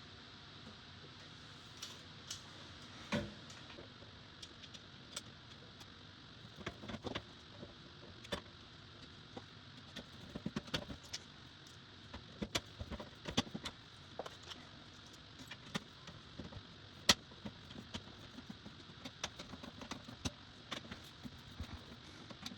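Irregular small clicks, taps and light metallic rattling of PC fan parts and screws being handled, with a duller knock about three seconds in and one sharp click later on.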